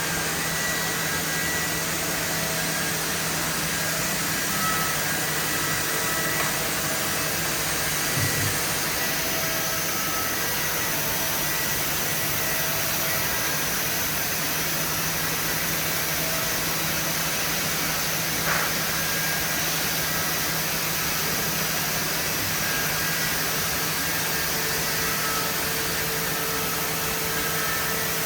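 HOMAG Optimat BAZ 211 Venture 21L CNC woodworking machining center running: a steady hiss over a low hum, with a brief click about two-thirds of the way through.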